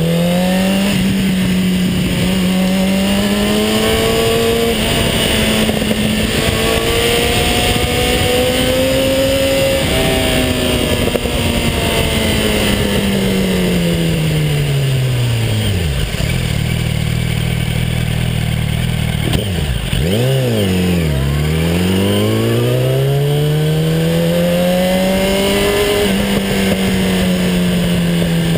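Yamaha YZF-R1 motorcycle's inline-four engine under way, its pitch climbing through the gears with brief breaks at the shifts. About halfway through it slows to a low, steady near-idle note, gives a quick throttle blip, then pulls up through the revs again. Wind rushes over the microphone throughout.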